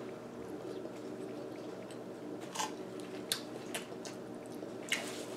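Faint chewing with a few sharp mouth clicks, over a steady low hum.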